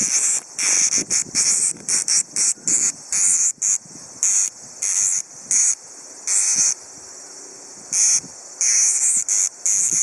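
Tsukutsukuboshi cicada (Meimuna opalifera) buzzing in short, irregular bursts. Some bursts are brief and some last about half a second, with gaps of varying length between them.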